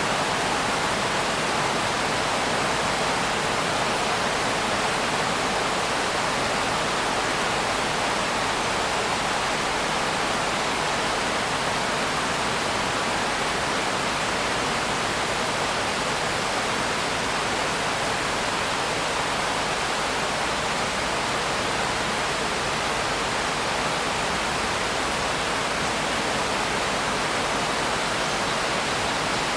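Steady, heavy rain: a dense, even hiss without distinct drops or thunder, unchanging throughout.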